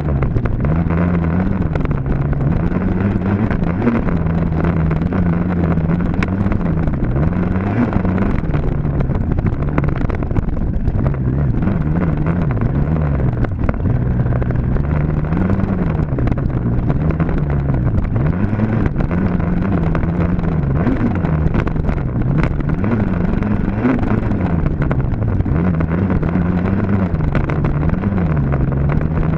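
Dirt bike engine running hard, its pitch rising and falling every second or two as the throttle is opened and closed and the bike shifts through the gears.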